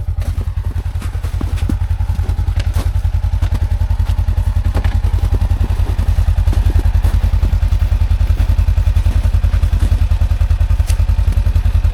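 Side-by-side UTV engine running steadily at low revs, a regular low throb that grows slightly louder, with scattered knocks and rattles over it.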